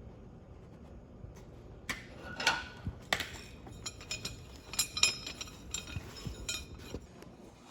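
Pieces of steel clinking and knocking together, a quick irregular run of sharp metallic clinks with short ringing that starts about two seconds in and stops just before the end.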